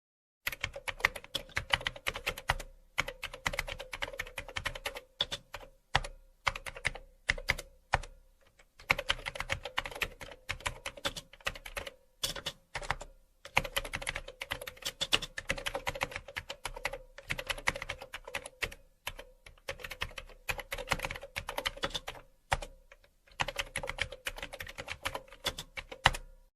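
Rapid, irregular clicking in runs of quick strokes broken by brief pauses, a typing-like sound effect.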